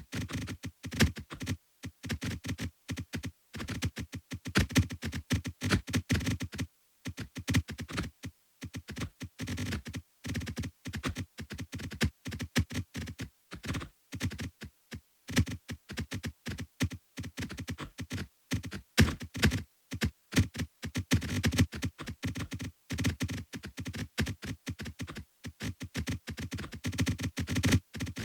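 A rapid, irregular stream of short synthesized clicks and thuds, many per second with brief gaps and no steady beat.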